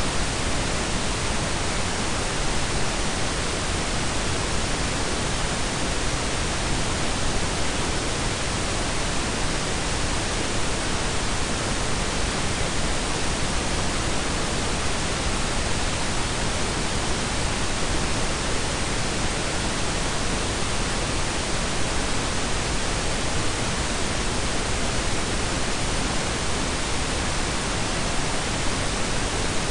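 Steady, unchanging blend of synthetic pink and brown noise, an even hiss with a deep rumble beneath it and no events or tones.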